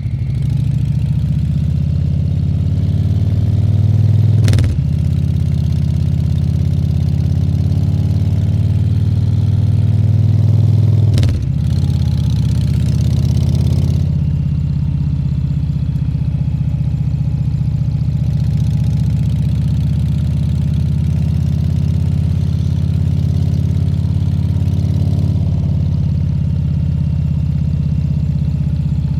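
Harley-Davidson Fat Bob 114's Milwaukee-Eight V-twin engine pulling under way. The engine note builds twice and breaks sharply, about four and a half and eleven seconds in, as it shifts up. After that it runs steady at cruising speed.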